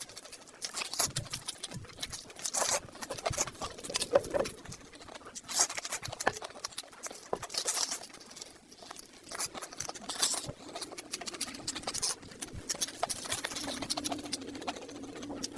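Close-miked chewing and mouth sounds: irregular wet clicks and smacks of someone eating.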